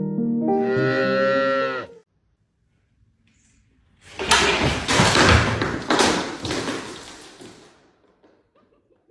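Music with a long note that bends downward and stops about two seconds in. After a short pause comes about four seconds of loud clattering noise with several heavy thuds, fading away.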